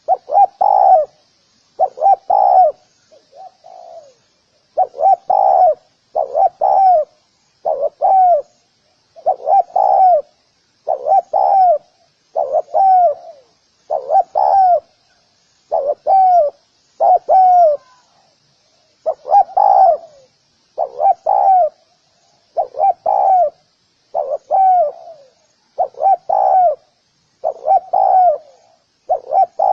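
Spotted dove cooing: a short two- or three-note phrase that falls in pitch, repeated steadily about every second and a half. Small birds chirp faintly behind it.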